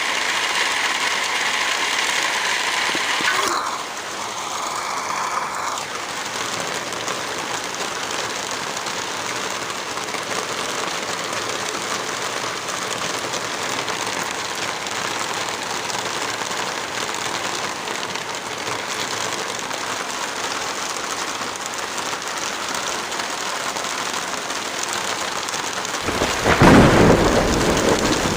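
Steady rain falling, with a loud rumble of thunder near the end.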